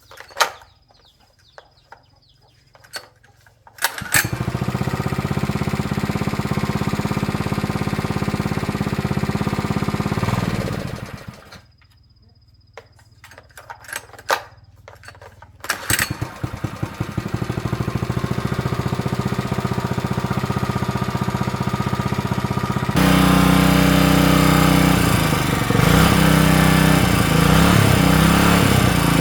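Small petrol engine started and running for about six seconds before it stops, then started again and kept running, speeding up and getting louder about seven seconds before the end. The engine has just had a leaking gasket replaced and fires readily.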